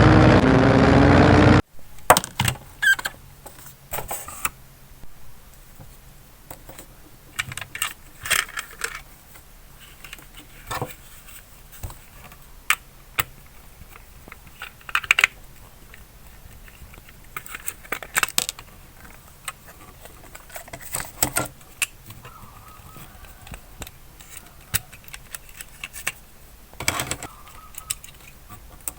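A loud burst of intro music that cuts off abruptly under two seconds in, then irregular small clicks, clinks and short rattles of a diecast model car being handled.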